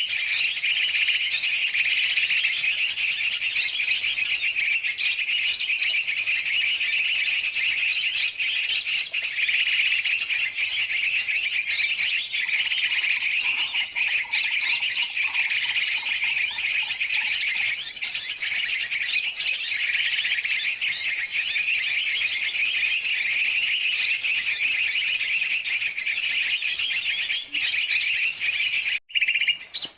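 Bird-lure recording: a dense, noisy chorus of many birds, large and small, chirping and twittering without a break. It cuts out abruptly for a moment near the end.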